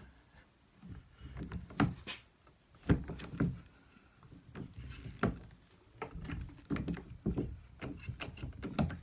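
Hand-cranked Durston rolling mill being worked as 14k gold wire is rolled flat. There are irregular knocks and clicks from the mill, with a low rumble between them.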